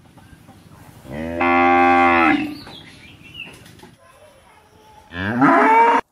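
A cow mooing twice: a loud, steady moo about a second in lasting just over a second, then a second moo near the end that rises in pitch and is cut off abruptly.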